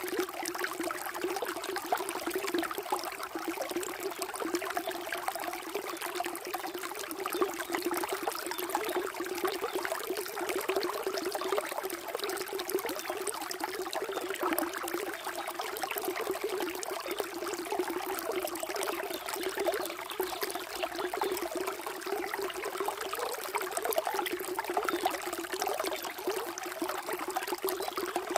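Water flowing and trickling steadily, a continuous splashing babble with no pauses.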